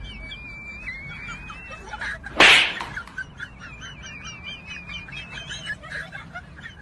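Birds chirping and calling in the background: short repeated chirps and a wavering high whistled note. About two and a half seconds in there is a single loud smack.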